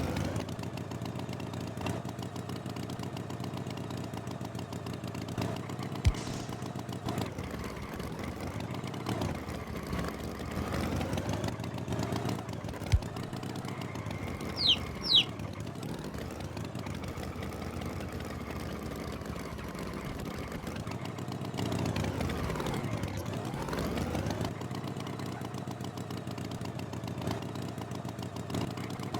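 Cartoon tractor engine running steadily. Its pitch dips and rises again twice, as if slowing and speeding up. Two quick high chirps come about halfway through, and there are a couple of sharp clicks.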